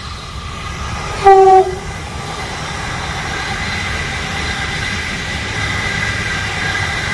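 Metro Trains Melbourne suburban electric train going by close at hand: one short, loud blast of its horn about a second in, then the steady rumble of the train running along the track.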